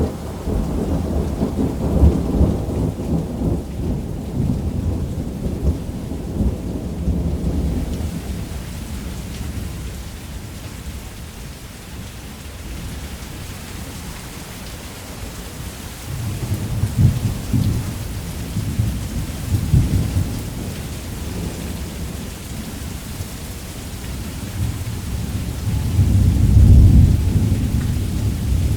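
Thunder rumbling over steady heavy rain on a roof. Deep rumbles come in the first several seconds, ease off, return past the halfway point and are loudest near the end.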